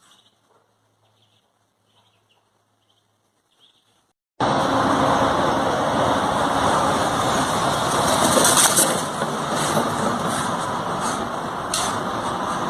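Faint, short high peeps of ducklings, then about four seconds in a loud, steady rushing noise cuts in abruptly and drowns them out.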